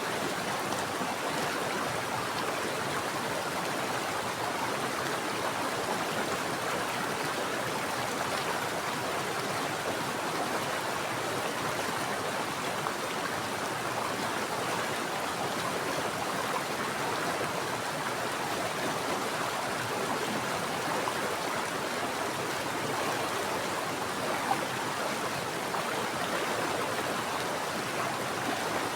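Mountain stream flowing steadily, an even, unbroken rush of running water.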